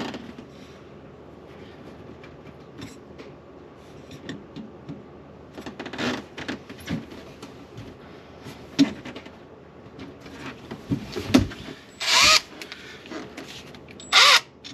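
Scattered knocks and clinks of parts being handled, a heavy thump about 11 seconds in, then a cordless drill-driver run in two short bursts, its whine rising and falling each time.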